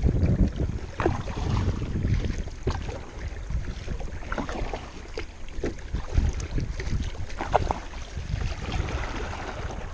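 Kayak paddle strokes splashing in the water, with short drips and plinks off the blades, over wind buffeting the microphone.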